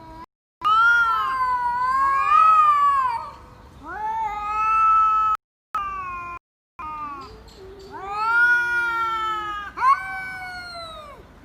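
A cat yowling in a series of long, drawn-out calls that bend up and down in pitch, each breaking off abruptly.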